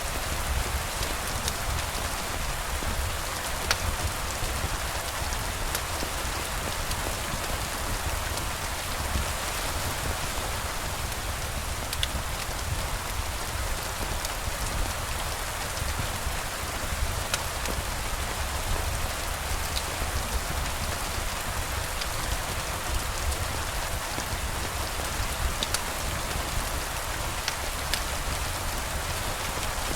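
Steady rain falling and pattering on surfaces, an even hiss with a low rumble underneath and a few faint scattered clicks.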